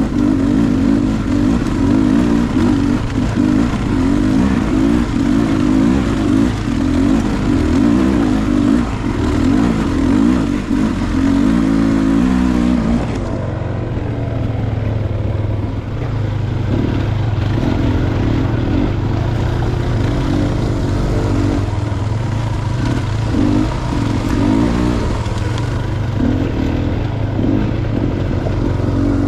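Dirt bike engine running hard on a trail ride, revving up and down with the throttle. About halfway through the engine note drops to a lower, steadier run.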